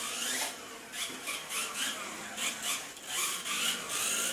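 Small electric RC cars racing, their motors whining up and down in pitch as they speed up and slow, with rapid scrubbing and rasping from the wheels.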